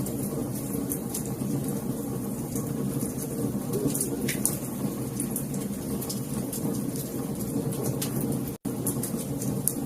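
Wood fire crackling and popping over a steady low rumble of flames, with many quick sharp snaps. It cuts out for an instant near the end.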